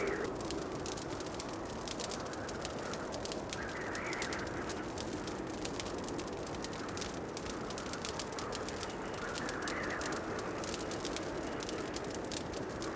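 Wood fire crackling in a fireplace: many small, irregular pops and snaps over a steady soft rushing hiss, with two gentle swells in the hiss about four and ten seconds in.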